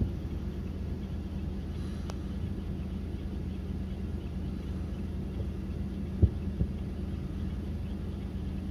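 Distant fireworks shells bursting, heard as dull low thumps: one at the start and two close together about six seconds in, over a steady low hum.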